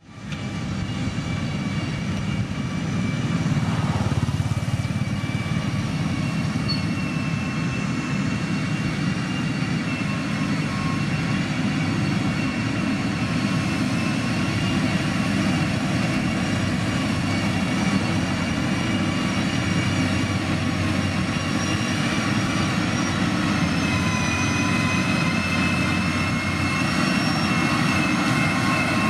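Motor grader's diesel engine running steadily under load, a low rumble with a steady high whine over it.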